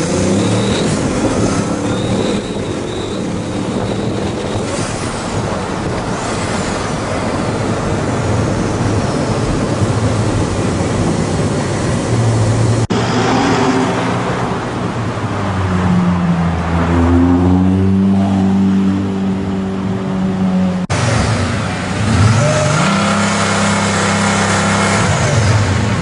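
Supercar engines revving and accelerating in city streets, across three short clips that cut off abruptly. An engine note climbs in pitch through the middle clip, and near the end another rises and falls again.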